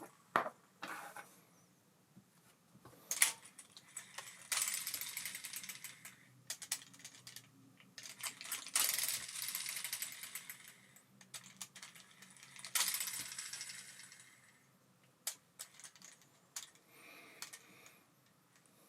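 Abu Garcia Ambassadeur 5500C baitcasting reel being handled and turned, giving sharp metallic clicks and clinks. Three times it gives a couple of seconds of rapid whirring ticks that fade away.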